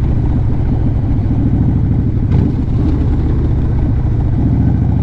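A Harley-Davidson motorcycle's V-twin engine idling steadily with an even, low pulsing rumble. There is one brief click a little over two seconds in.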